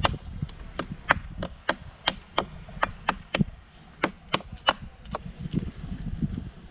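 Knife chopping into a freshly caught fish as it is cleaned: sharp, quick strokes about three a second, thinning out after about five seconds.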